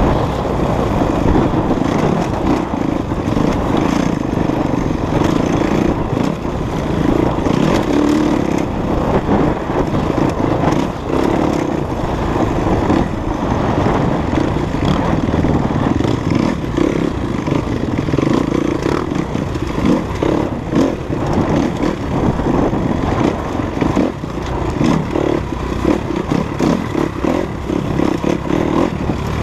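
Off-road dirt bike engine running and revving up and down as the motorcycle is ridden along a rough trail, with clatter and rattling over the terrain.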